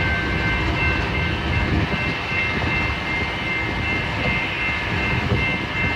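Diesel locomotives running: a steady low rumble with a few thin, steady high-pitched whines on top.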